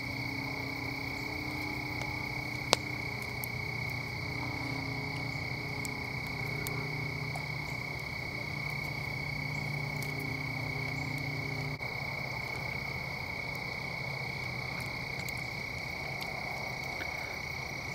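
Steady chorus of frogs and insects, a constant high trill, with a low hum underneath that stops about two-thirds of the way through and a single sharp click about three seconds in.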